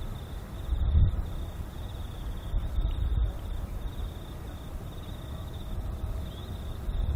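Wind buffeting the microphone in uneven low gusts, strongest about a second in and again around three seconds, with crickets or similar insects chirping in a steady high pulsing trill.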